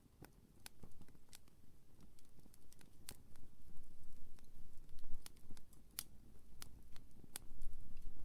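Firewood campfire crackling, with irregular sharp pops and snaps over a low rumble that grows louder near the end.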